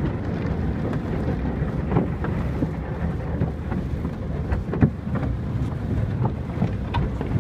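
Automatic car wash heard from inside the car: a loud, steady rushing rumble of the wash equipment buffeting the car, with a few sharp knocks against the body.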